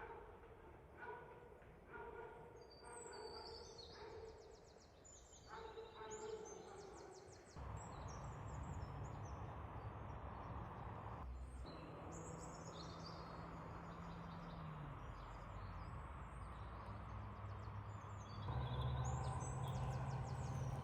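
Birds calling: high chirps and trills, with a repeated lower call about once a second in the first several seconds. After about seven seconds a steady hiss with a low hum takes over beneath the chirps.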